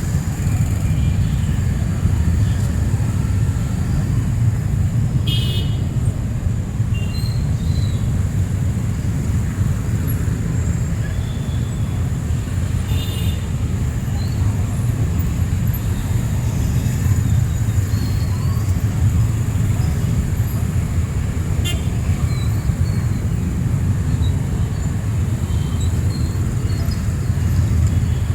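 City street traffic with vehicles running by as a steady low rumble, and brief high-pitched toots, twice.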